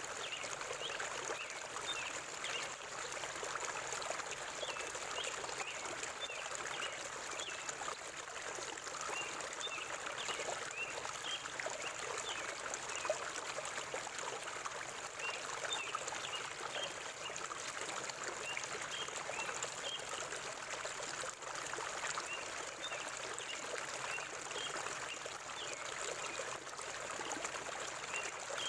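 Forest river water flowing and trickling steadily, with small birds chirping now and then above it.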